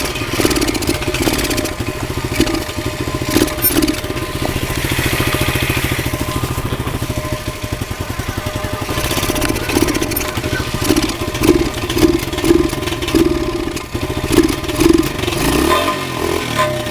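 Pit bike's small four-stroke single-cylinder engine running roughly, with uneven surges of throttle. It doesn't sound good; the owner hopes it is just his muffler, stuffed with cloth and duct-tape packing.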